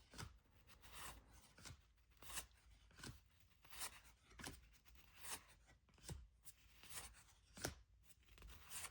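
Faint, soft flicks of cardboard trading cards being slid one by one off a stack, about one every two-thirds of a second.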